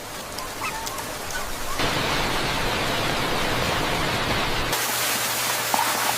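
Steady hiss of heavy rain. It steps up sharply about two seconds in, and a steady low hum joins it near the end.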